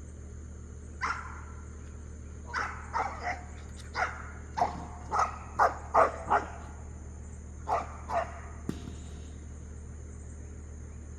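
A farm dog barking in short, separate barks, about a dozen of them, that stop about eight seconds in. The barks are alert barking toward the woods at something the dog senses there.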